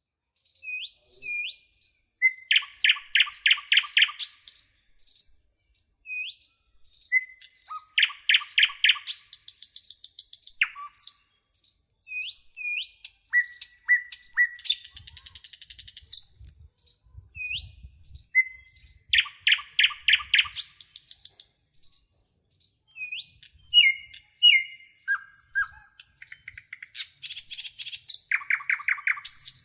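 Garden birds chirping: short, rising single chirps between quick bursts of about six loud, rapid notes that come back every few seconds.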